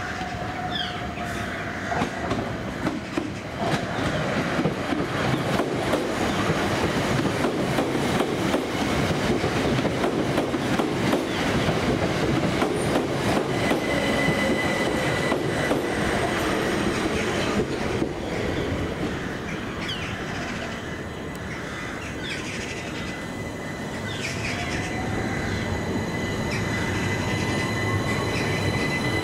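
Electric multiple-unit train running past the platform, its wheels clicking over the rail joints. A steady high tone comes in about halfway, and a whine rises in pitch near the end.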